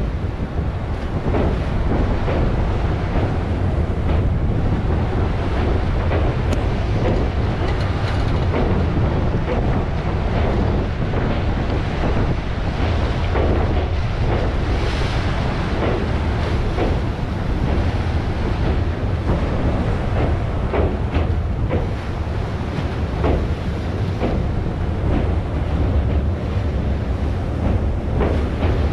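Indian Railways passenger coaches rolling past at close range, with a steady low rumble and repeated wheel clacks, mixed with wind buffeting the microphone and sea waves washing below.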